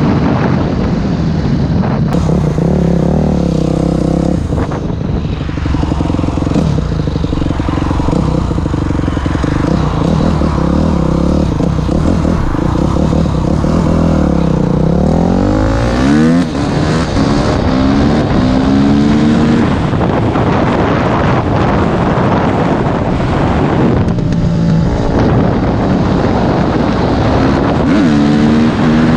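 Yamaha YZ250F single-cylinder four-stroke dirt-bike engine running hard at road speed, its pitch climbing under acceleration and dropping back with gear changes and throttle lifts. About halfway through the revs fall and then climb steeply.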